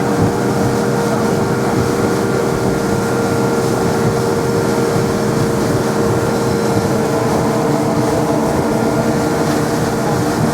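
Boat engine running steadily at cruising speed, heard from aboard, a constant drone of several held tones over the rush of the hull and water.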